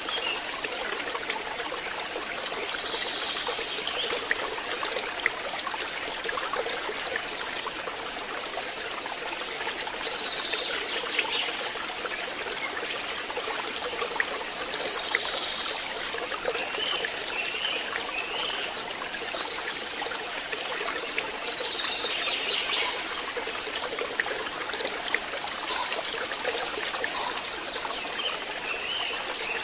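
Water trickling and splashing steadily into a fish pond, with brief high squiggly calls every few seconds.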